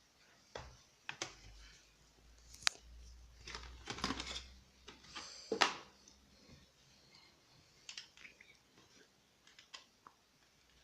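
Handling of a plastic toy airliner model and its stand: irregular sharp plastic clicks and taps with brief rustling, the loudest taps about a third and halfway through.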